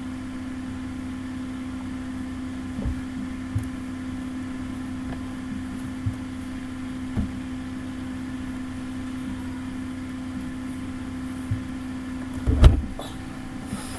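Steady low electrical hum, with a few faint taps and one louder bump near the end.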